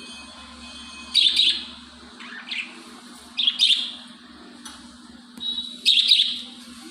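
Lovebirds giving loud, shrill chirping calls in several short bursts. The loudest come about a second, three and a half seconds and six seconds in.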